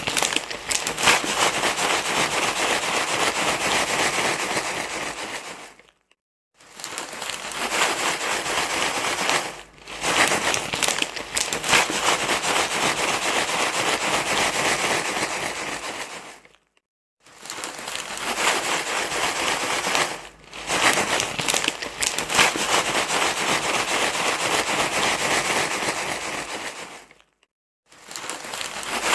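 Dense crinkling, crackly rustle, a baby-soothing noise played loud on a loop. It stops for about half a second three times, roughly every ten and a half seconds, and dips briefly in between.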